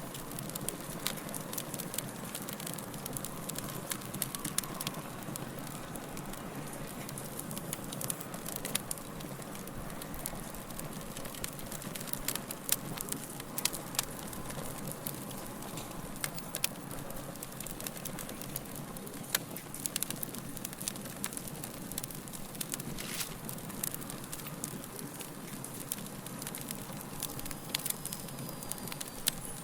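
Fire crackling, with many sharp, irregular pops and snaps over a steady soft hiss.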